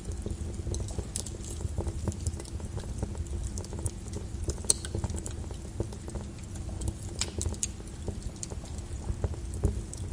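Lava flow crackling: irregular clicks and sharp cracks as the cooling crust breaks, over a steady low rumble, with the loudest crack about five seconds in.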